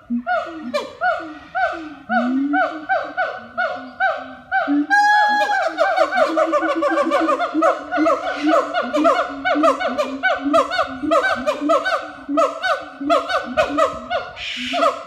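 Siamangs calling loudly in chorus: a rapid series of short, pitched hoots, each sliding down in pitch, about three a second. About five seconds in they quicken into a faster, excited run, with a brief high whoop.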